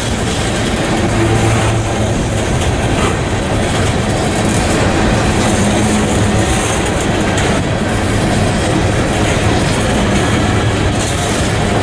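Empty coal cars, aluminium gondolas and hoppers, rolling past at speed: a steady noise of steel wheels running on the rails, with a few faint knocks.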